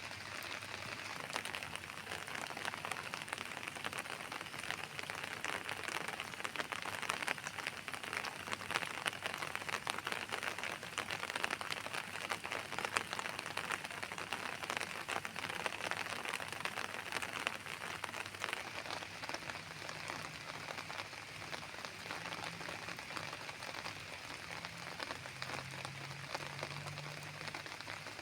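Rain falling steadily, a continuous patter of many small drops striking surfaces.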